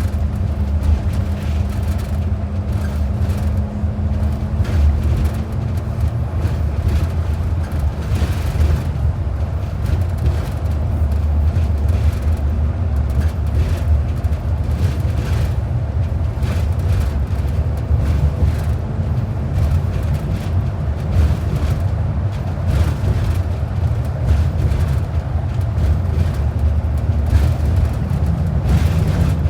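Inside an express transit bus under way: a steady low rumble of engine and road noise, with a constant drivetrain hum that shifts slightly in pitch a few times.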